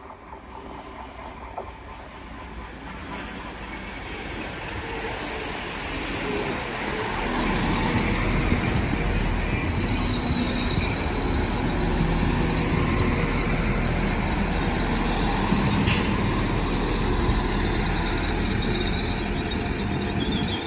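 Train approaching and running in, growing louder over the first several seconds and then holding steady, with a high-pitched metallic squeal lasting several seconds before it fades. A single sharp click comes about three-quarters of the way through.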